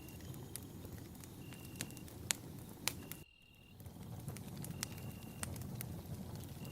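Wood campfire burning, with a low steady rush of flames and scattered sharp crackles and pops. A short high-pitched chirp repeats about every second and a half. About three seconds in, the sound drops out for half a second.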